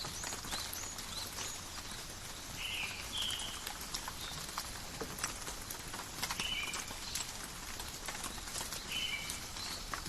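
Steady rain falling in a forest, a constant hiss dotted with sharp drops dripping and pattering on leaves. Short high animal calls sound in pairs a few times through it.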